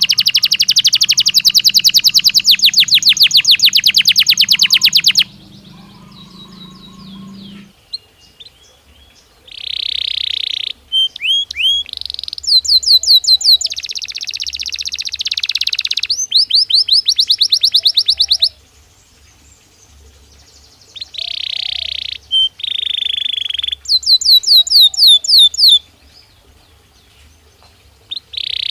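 Belgian canary singing: phrases of fast, evenly repeated trilled notes alternating with buzzy rolls, with short pauses between phrases.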